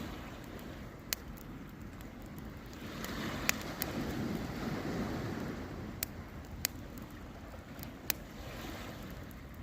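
Campfire crackling, with about six sharp pops scattered over a steady rush of wind and Baltic surf that swells in the middle and eases off.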